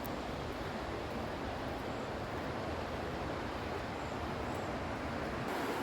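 Steady rushing water of Burney Creek near the top of Burney Falls, an even wash of noise that holds without a break.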